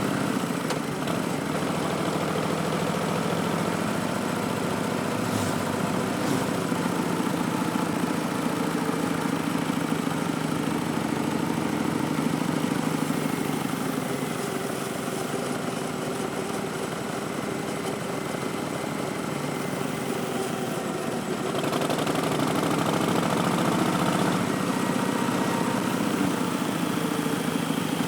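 2019 Harley-Davidson Street Bob's Milwaukee-Eight V-twin running through Vance & Hines Twin Slash slip-on mufflers, with a steady exhaust note that eases a little midway and grows louder again about three quarters of the way through.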